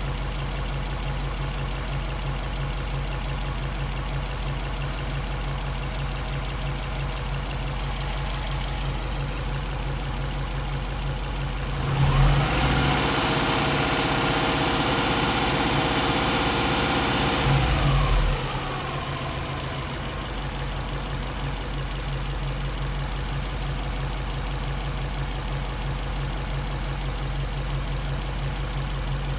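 Subaru EJ207 turbocharged flat-four idling warm, an engine its owner suspects of a failed head gasket or a cracked head. About twelve seconds in, a louder whirring rush joins it for about six seconds, then winds down in pitch as it stops.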